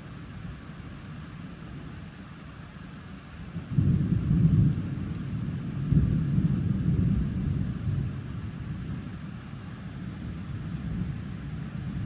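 Thunder over steady heavy rain: a loud, deep rumble starts suddenly about four seconds in, swells again a couple of seconds later, then rolls away slowly, with another rumble building near the end.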